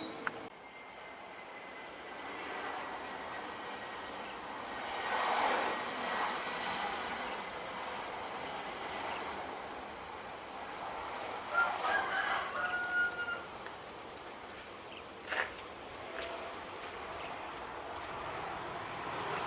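Outdoor ambience with a steady high-pitched whine like insects, a swell of noise about five seconds in, a short bird call about twelve seconds in and a single sharp click a few seconds later.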